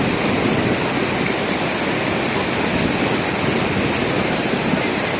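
Fast-flowing water rushing steadily and evenly, with no break or change.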